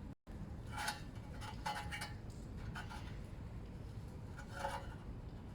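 Hands working exhaust heat wrap around a motorcycle exhaust pipe: several short rubbing, scraping sounds a second or so apart, after a brief gap near the start.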